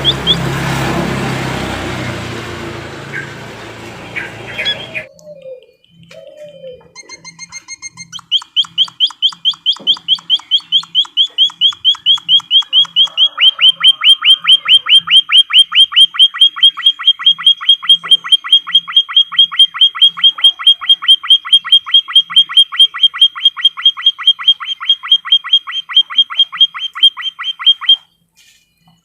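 Emprit kaji (white-headed munia) calling a long, fast run of short, high chirps, several a second, that grows louder and then stops abruptly near the end. The first few seconds are a rushing noise, before the chirping starts.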